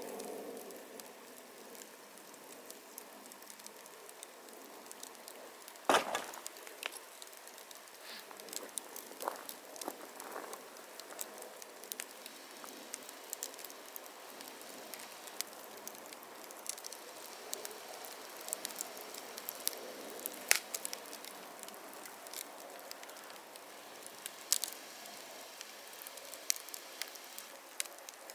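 Wood fire crackling: a soft steady hiss with scattered sharp pops and snaps, one much louder pop about six seconds in.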